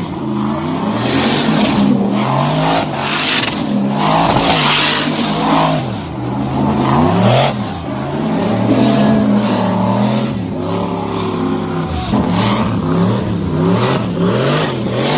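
Turbocharged LS V8 of a lifted, monster-tyred Camaro revving up and down over and over as it spins donuts on dirt.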